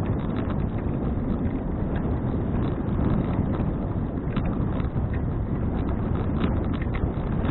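Wind buffeting an action camera's microphone while cycling, a steady low rumble with a few faint ticks scattered through it.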